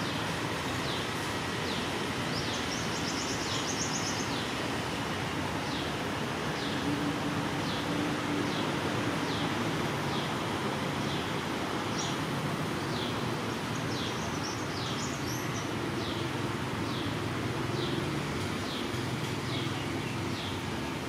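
Outdoor ambience: a steady background hiss with a small bird giving short, falling chirps about once a second, and a brief higher trill twice. A faint low hum sits under it.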